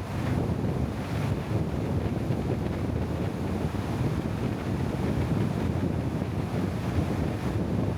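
Wind buffeting the microphone: a steady low rumble without pause.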